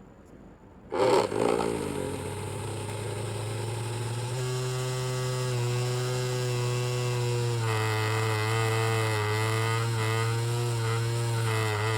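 Small DC motor fan of a homemade cardboard mini air cooler switched on about a second in, quickly speeding up, then running with a steady buzzing hum that wavers slightly in pitch in the second half.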